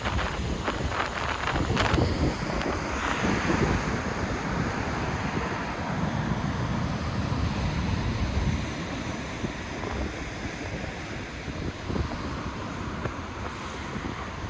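Wind buffeting the microphone over the rush of surf breaking against the cliffs, the gusts easing a little after about eight seconds.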